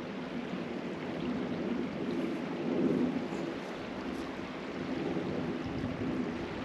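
Steady low drone of a jet airliner passing high overhead, swelling slightly a few seconds in, over a steady rushing hiss.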